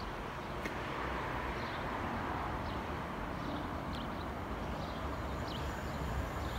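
Class 377 electric multiple unit approaching in the distance, a steady low rumble of the train on the rails, with short bird chirps over it about once a second.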